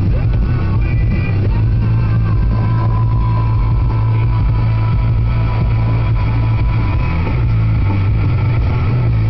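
Steady low drone of a car driving, heard from inside the cabin, with music playing over it.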